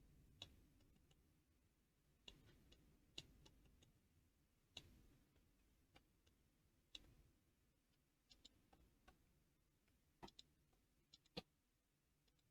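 Near silence broken by faint computer mouse clicks, about ten sharp, irregularly spaced clicks, as points and curves are selected in the CAD software.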